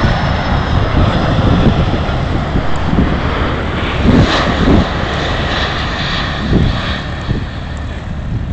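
Jet engines of a Boeing 747 airliner, a loud steady rush of jet noise with a faint high whine, easing slightly near the end. Wind gusts buffet the microphone.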